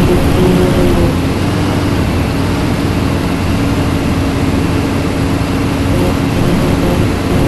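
Scania city bus diesel engine running steadily under way, heard from inside the bus with road and cabin noise. Its tone fades a little mid-way and strengthens again near the end.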